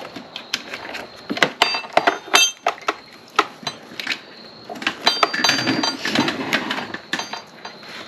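Irregular clinks and knocks of small metal parts and hand tools being handled, a few ringing briefly, mostly about two seconds in and again past the middle.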